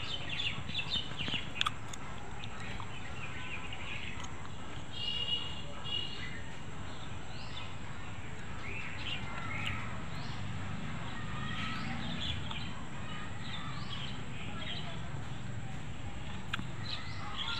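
Birds chirping and calling on and off, with two short runs of repeated high notes about five seconds in, over a steady low background hum.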